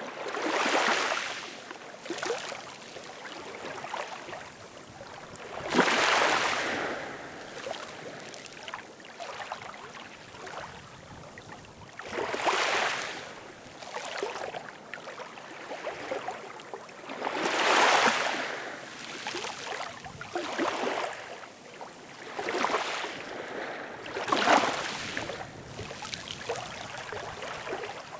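Ocean waves breaking on a shore: five big surges of hissing wash, about every six seconds, with smaller washes between them.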